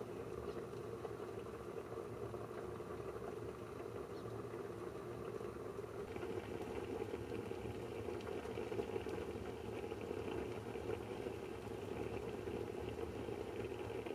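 Water boiling, a steady bubbling rumble, with a higher hiss joining about six seconds in.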